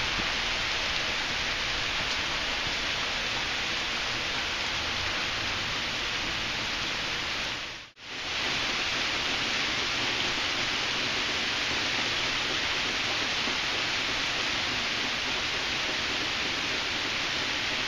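Steady heavy rain falling on pavement and foliage, a dense even hiss. It drops out for a split second about halfway through and then carries on.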